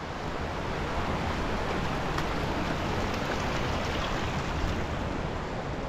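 Steady rushing noise of rain and wind outdoors: an even hiss with a low, unsteady rumble.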